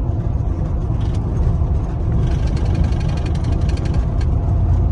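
Chevrolet Silverado pickup driving at road speed, its engine and road noise a steady low rumble heard from inside the cab, growing a little louder about two seconds in.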